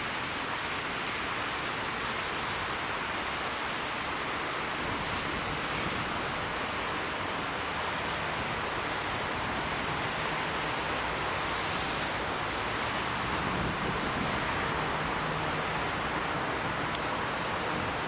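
Steady rushing outdoor noise, with the low hum of an approaching TEP70BS diesel locomotive coming in faintly about halfway through and growing slightly louder.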